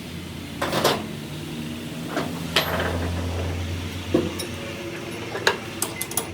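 Metal parts and tools clinking and knocking against each other, about eight sharp strikes spread irregularly, the last few in quick succession near the end, over a steady low machine hum.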